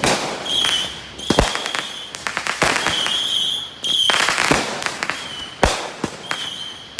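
Fireworks going off in a barrage: about five sharp bangs a second or so apart, with crackling between them and short high whistles.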